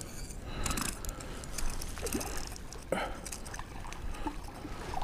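Water splashing and lapping at the side of a kayak as a hooked small black drum is brought in, with wind buffeting the microphone.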